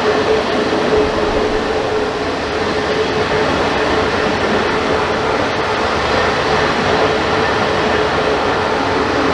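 Ballast cleaner trackwork train rolling past close by: the loud, steady rumble of its spoil wagons' wheels on the rails, with a steady tone under it.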